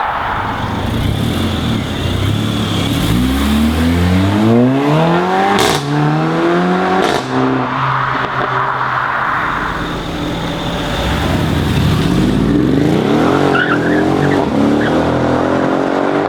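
A performance car's engine revving hard. Its pitch climbs about three seconds in and again in the last few seconds, with two sharp cracks around the middle. Between the revs there is a hissing tyre noise of wheelspin.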